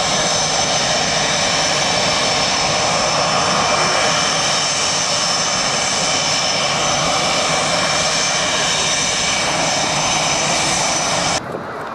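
Aircraft engine running steadily and loudly, with a high, even whine over a rushing noise, cutting off suddenly near the end.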